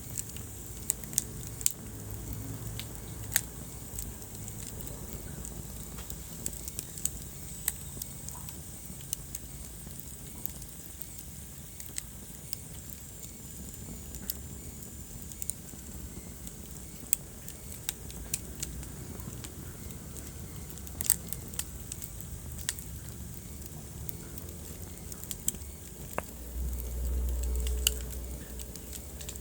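Wood fire in a fireplace crackling: scattered sharp pops and snaps over a steady low rumble of burning flames, with a louder low rumble for a second or two near the end.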